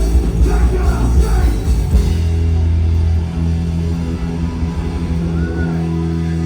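Live rock band playing loud through amplifiers, with a voice singing or yelling for about the first two seconds. Then the band holds a sustained chord that rings on steadily.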